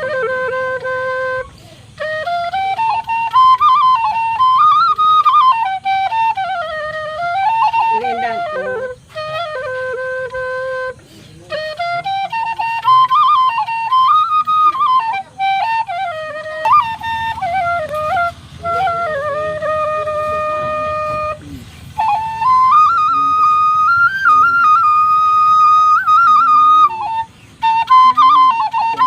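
Solo flute playing a slow melody of held notes and rising and falling phrases, with short breaks between phrases.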